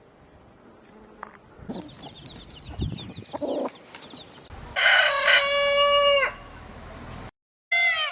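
A rooster crowing once, about five seconds in: a loud call lasting about a second and a half. Before it there is quieter clucking and short high cheeping with a few soft knocks.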